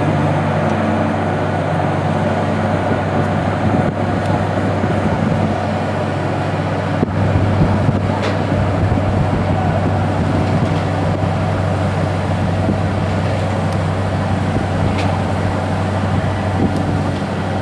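Boat engine running with a steady low drone, driving the propeller hard to churn up mud in a shallow river mouth.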